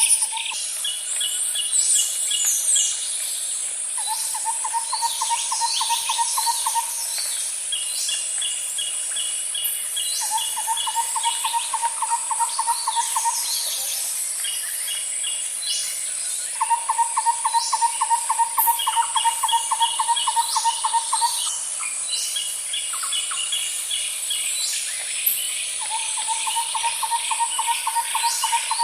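Outdoor nature ambience: a steady high insect buzz throughout, a low pulsing trill that comes four times for a few seconds each, and short rapid chirping call series from birds in between.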